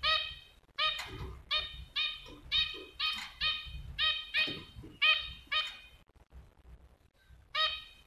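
Small caged bird giving a run of short calls, all on the same pitch, about two a second. The calls stop about six seconds in, and one more comes near the end.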